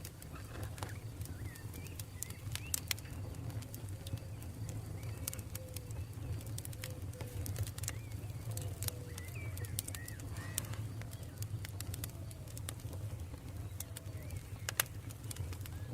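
Wood fire crackling with frequent sharp pops over a steady low rumble. A dove coos in a run of short low notes in the middle, and small birds chirp now and then.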